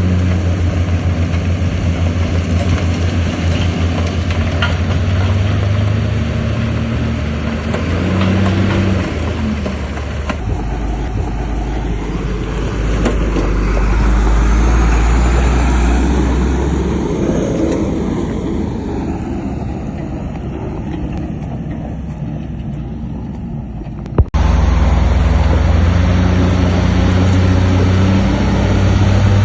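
Heavy diesel engines of earthmoving machines (a bulldozer and dump trucks) running under load. A steady engine note gives way about ten seconds in to a deeper rumble that swells and fades, then cuts off abruptly about 24 seconds in and the steady engine note resumes.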